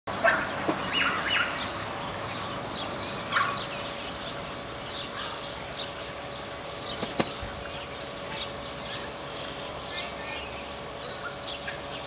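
Birds chirping and calling all through, many short quick notes, with a few louder calls in the first few seconds. A single sharp click about seven seconds in.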